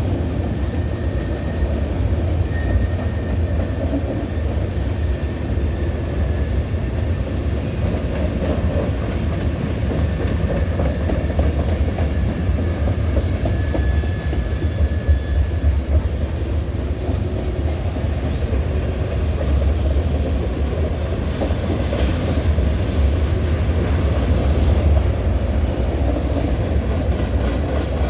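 Freight cars of a long manifest train rolling steadily past, with a deep rumble and the clickety-clack of wheels over rail joints. A faint, thin, high wheel squeal comes and goes in the first half.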